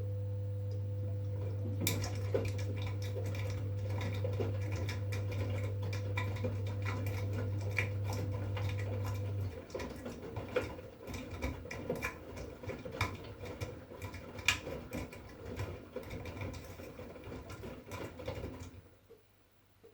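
V-Zug Unimatic SL washing machine running a wash cycle. A steady low hum from the machine stops about halfway through. Dense pattering and clicking, like the drum turning wet laundry, starts about two seconds in and stops suddenly near the end.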